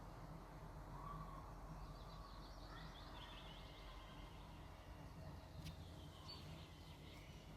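Faint songbird calls: a quick run of high chirps about two to three seconds in, over a low steady background rumble.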